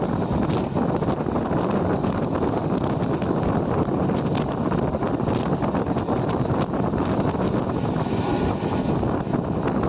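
Steady roar of a passing train, with wind buffeting the microphone and faint clicks over it.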